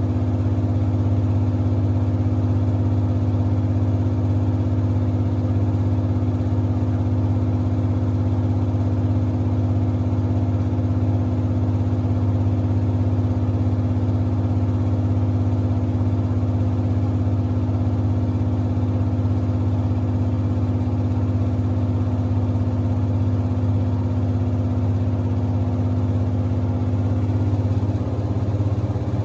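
Samsung WD70T4047CE front-loading washer-dryer running, its drum spinning at a steady speed with a constant motor hum. The hum shifts slightly near the end.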